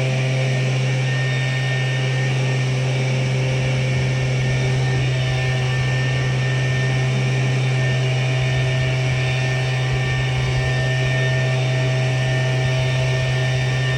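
Tractor engine running steadily at constant speed: a loud, even low drone with steady higher tones above it.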